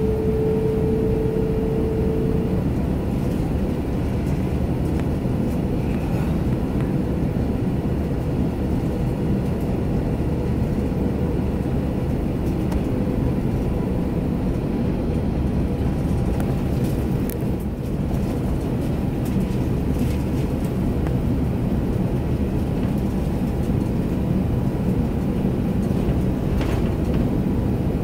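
Cabin noise inside an Airbus A330-200 airliner on the ground: a steady low rumble of engines and airframe, with a faint high tone near the start.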